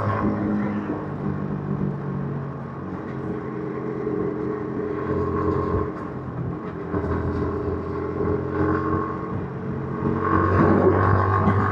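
Yamaha MT-15's 155 cc single-cylinder engine running through its stock exhaust while riding. The revs ease off in the first few seconds and again around six seconds in, then build up louder near the end.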